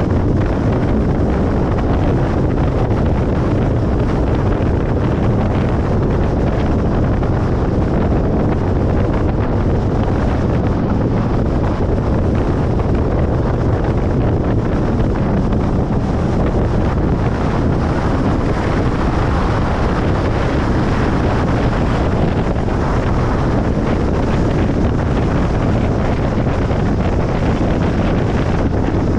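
Steady road noise of a car moving along a motorway: an even, low rumble of tyres and wind that does not change.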